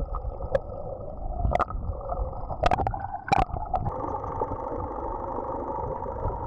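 Muffled underwater work noise: a low mechanical hum with gurgling, broken by a few sharp clicks in the first half; about four seconds in the hum becomes steadier and gains a higher tone.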